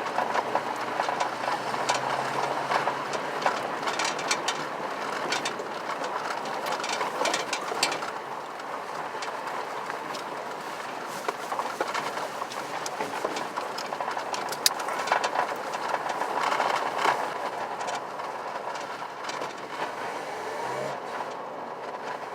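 Truck driving, a steady engine and road rumble with frequent short rattles and clicks running through it.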